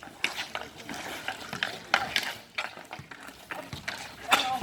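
Ice hockey play: skate blades scraping on the ice with irregular sharp clacks of sticks and puck, the loudest near the end.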